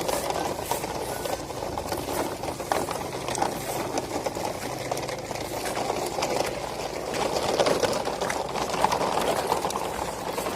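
Truck's motor running with a steady mechanical rattle and many small clicks; no horn sounds.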